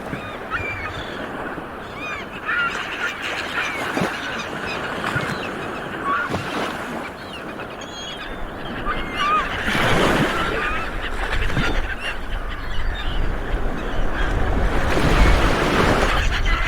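A flock of seabirds calling: many short, squawking, pitch-bending calls overlapping without pause. Two swells of rushing noise rise under the calls, about ten seconds in and again near the end.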